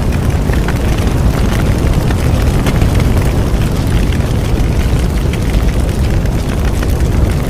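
Bonfire burning: a steady low rumble of the flames with frequent small crackles and pops throughout.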